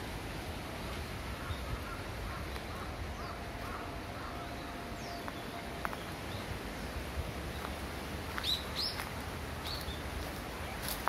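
Wild birds calling in woodland: scattered short chirps, the loudest pair about eight and a half seconds in, over a steady background hiss.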